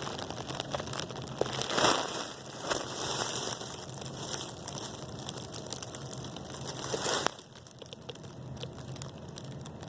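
Rustling, crinkling noise, loudest about two seconds in and again near seven seconds, then dropping away to a quieter hiss.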